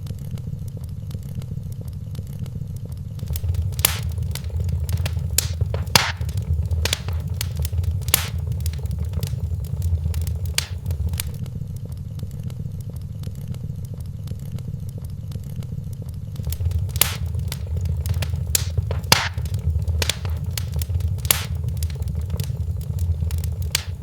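Wood fire crackling in a fireplace: scattered sharp pops and snaps over a low, steady rumble that swells twice.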